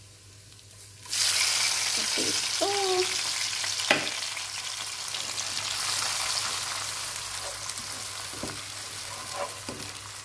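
Blended fresh tomatoes hit hot oil with frying shallots and garlic: a faint sizzle, then a sudden loud hiss about a second in that slowly dies down as the mixture is stirred. A spatula scrapes the pan and knocks on it sharply once, a few seconds in.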